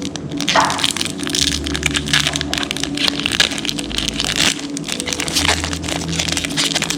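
Foil booster pack wrapper crinkling and crackling as it is handled, with trading cards rustling, over background music.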